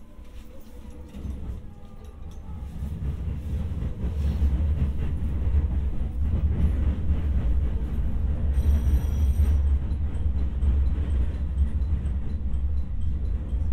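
Electric train standing at a station platform, a low rumble swelling over a few seconds and then holding steady. A brief high tone sounds about nine seconds in.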